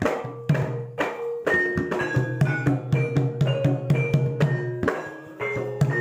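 Javanese gamelan music accompanying a kethoprak dance: quick, dense strokes of drum and struck metal keys, several a second, each leaving short ringing notes over a steady low tone, with a brief dip just before a strong stroke near the end.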